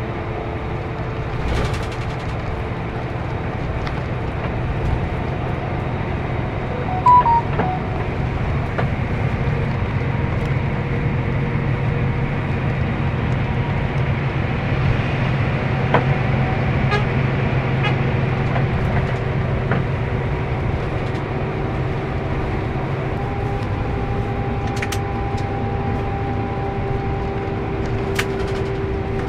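Scania K410CB coach running on the road, a steady engine hum under road noise. A short high beep sounds about seven seconds in.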